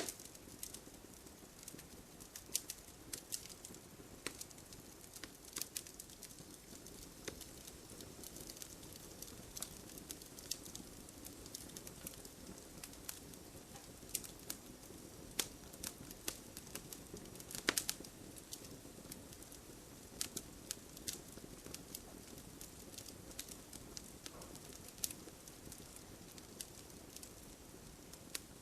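Wood fire burning in a fireplace: irregular sharp crackles and pops over a soft, steady rush of flame. A louder pop comes right at the start, and a cluster of louder snaps a little past halfway.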